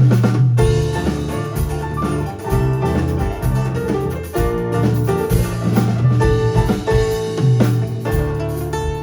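Live band playing a Spanish-style song: drum kit with held low bass notes and guitar.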